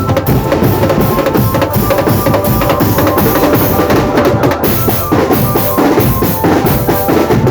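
Marching drum band playing: bass drums and snare drums beating a fast, steady rhythm, with a pitched melody line held over the drumming.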